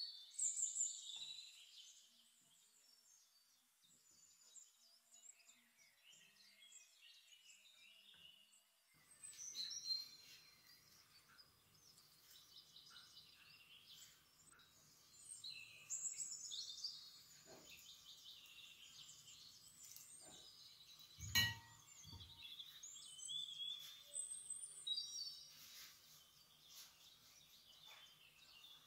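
Small birds chirping and calling faintly in the background, with a single sharp knock about three-quarters of the way through.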